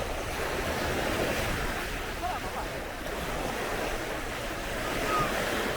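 Sea waves washing onto a sandy beach, a steady rushing surf, with wind buffeting the microphone.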